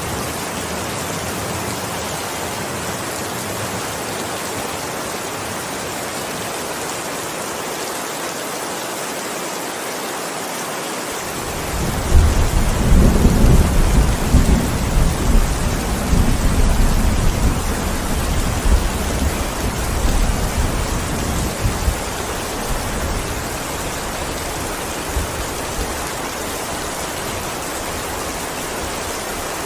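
Steady heavy rain hissing, with a roll of thunder that breaks in suddenly about a third of the way through, rumbles low for several seconds and fades away into the rain.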